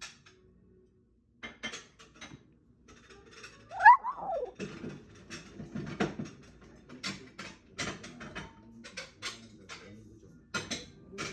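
Toy poodle giving one rising-then-falling whine about four seconds in while waiting for a treat, amid many light clicks and taps.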